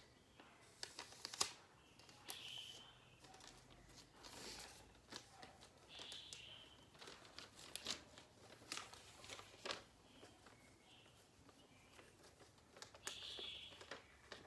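Sheet of calendar paper crinkling and rustling as it is folded and creased into a paper airplane, with irregular sharp crackles.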